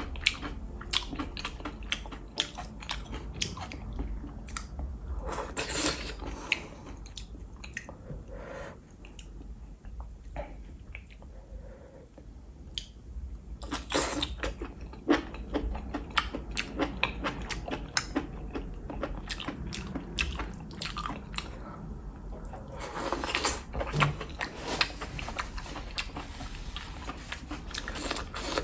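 A person chewing saucy enoki and oyster mushrooms, with wet clicking mouth sounds, and a few louder slurps about 6, 14 and 23 seconds in.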